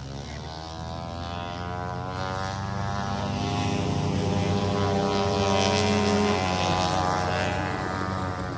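Small riding-lawnmower engine running at high revs, growing louder to a peak about six seconds in, then easing off.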